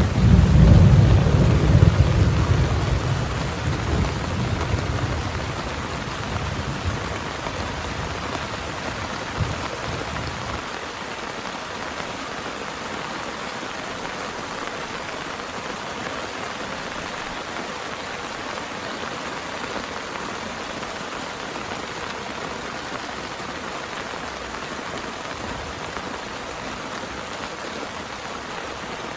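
Heavy rain falling steadily while a loud, deep roll of thunder rumbles at the start and dies away over about ten seconds.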